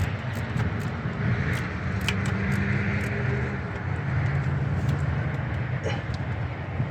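A steady low machine hum, like a motor running, with a few faint metallic clicks and taps from hand tools working the nut on the starter's main power wire.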